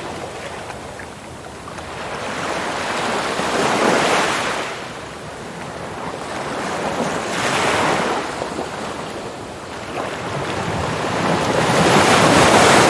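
Ocean surf washing in and out, the noise of the waves swelling and fading three times, roughly every four seconds.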